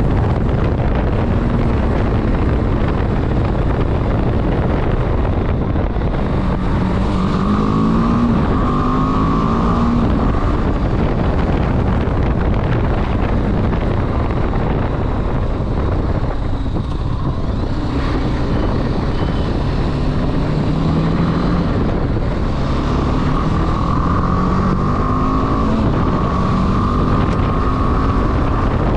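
Motorcycle riding with heavy wind rush on the microphone. The engine note climbs in rising steps twice, a quarter of the way in and again in the last third, as the bike accelerates through the gears.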